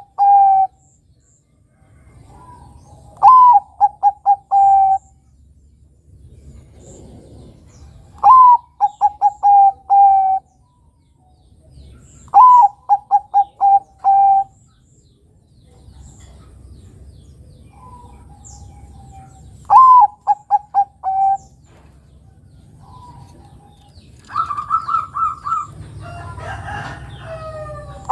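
Zebra dove (perkutut, Bangkok type) singing its cooing song: phrases every four to five seconds, each a brief sliding first note followed by a quick run of short staccato coos. Fainter coos come between the phrases, and a higher, rougher phrase comes near the end.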